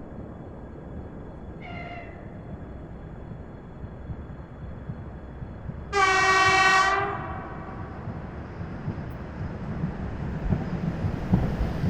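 Horn of an Ivolga electric multiple-unit train: a short faint toot, then about four seconds later one loud blast lasting about a second. Under it a steady low rumble grows louder near the end.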